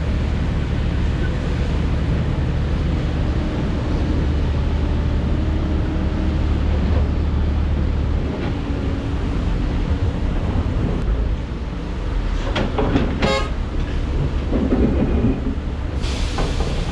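Heavy diesel construction machinery running steadily with a deep rumble. About three-quarters of the way through there is a quick run of metallic clanks and a squeal, and a short burst of hiss near the end.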